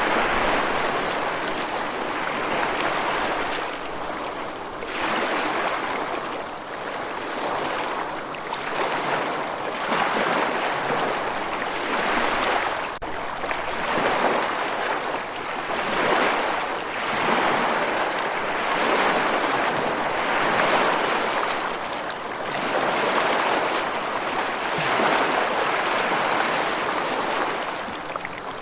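Rushing water, a steady hiss that swells and eases every second or two, like choppy surf or a fast-running stream.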